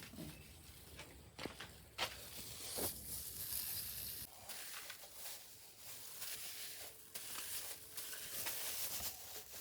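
Hands working wet cow dung mixed with herbal powders, kneading and patting it, in irregular squelching rustles and soft slaps.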